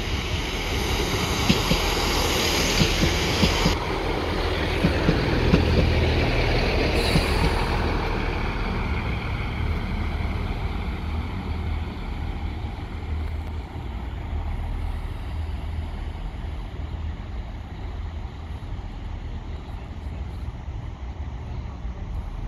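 A train passing, with a noisy rumble and clicks of wheels over the rail joints. It is loudest about six seconds in, then slowly fades as it moves away.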